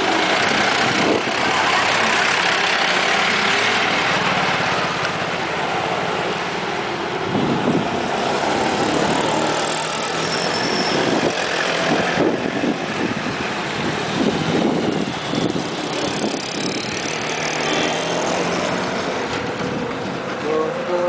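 Airliner engines at takeoff power: a loud, steady rush of engine noise that is loudest at first and slowly grows quieter as the plane moves off.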